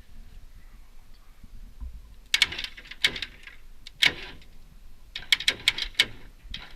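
Sharp metallic clicks and clatter in four short clusters, the last a quick run of about seven clicks.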